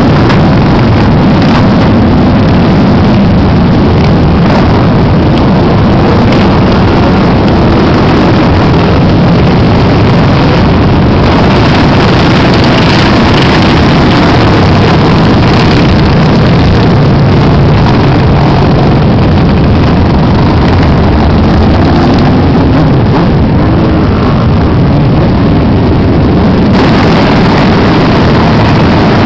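Many motorcycle engines running together as a stream of motorcycles rides past, loud and continuous.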